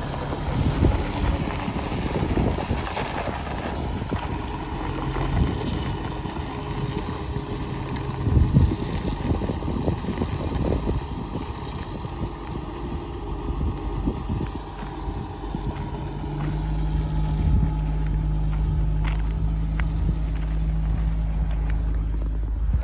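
A military truck's engine running as the truck is driven and turned, the sound shifting as it moves. About two-thirds of the way in it settles into a steady low hum.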